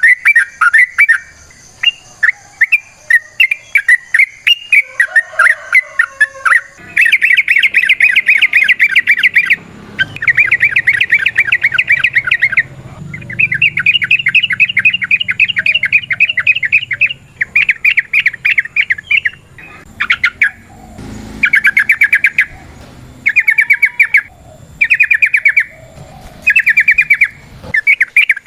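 Yellow-vented bulbul (trucukan) singing. Varied chirping notes give way, about seven seconds in, to long, rapid rolling trills (the 'ropel' song) in repeated bouts of a few seconds each, with the bouts growing shorter near the end.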